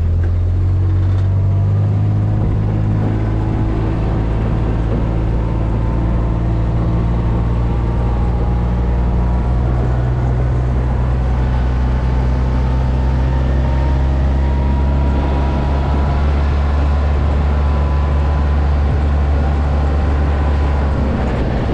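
Side-by-side utility vehicle's engine running steadily as it drives along, a constant low hum at an even speed.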